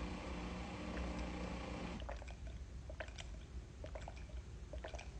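A person gulping down a thick sea-moss drink: faint wet swallowing clicks, after a steady low hum stops about two seconds in.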